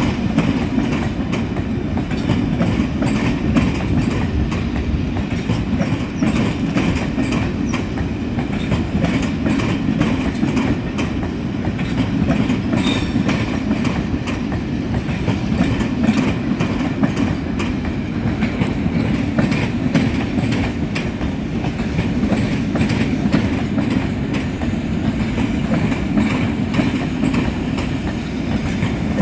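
A long rake of passenger coaches rolling past at steady speed: a continuous wheel-on-rail rumble with rapid clicking as the wheels run over rail joints and pointwork.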